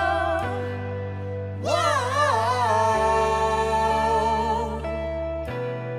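Live gospel band music with no sung words: sustained chords change every second or two. About a second and a half in, a lead line enters, bending up into its note and wavering with wide vibrato.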